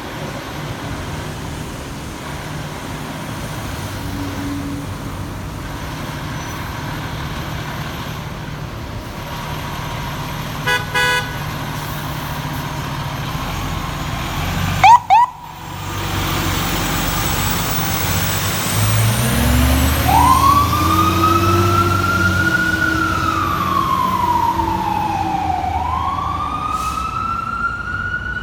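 Fire engine's diesel running steadily, a couple of short tone bursts, then a very loud brief blast about halfway in. The engine then revs as the truck pulls away and its Whelen electronic siren winds up into a wail that rises and falls twice.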